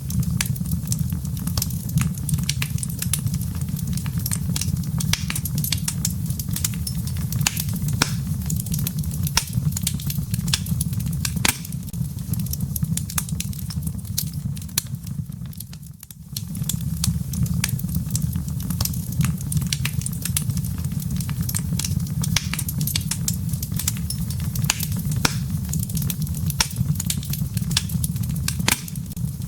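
Wood fire crackling in a fireplace: frequent sharp pops and snaps of burning firewood over a steady low rumble of flames. The sound dips briefly a little past halfway, then carries on.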